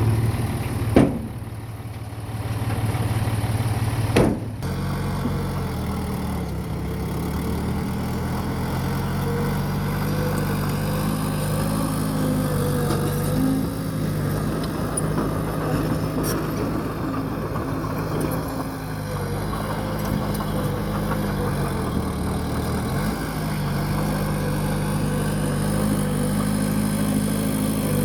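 Bulldozer's diesel engine running under changing load, its pitch stepping up and down, with two sharp metallic knocks, one about a second in and one about four seconds in.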